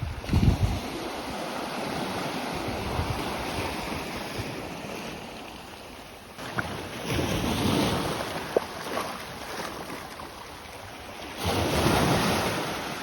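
Sea waves washing onto the beach, the surf swelling about seven seconds in and again near the end. A gust of wind buffets the microphone near the start.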